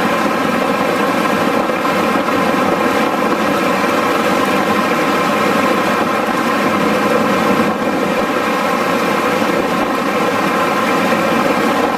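A steady, loud mechanical drone with a constant pitch made of many evenly spaced tones, like an engine or rotor running at an unchanging speed.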